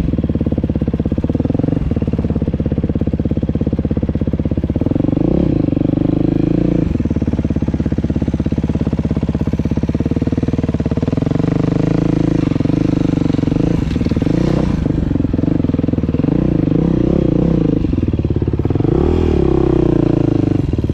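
Dirt bike engine running under a rider on an off-road trail, the throttle opening and closing so the engine note rises and falls in repeated surges, with some clatter from the bike over rough ground.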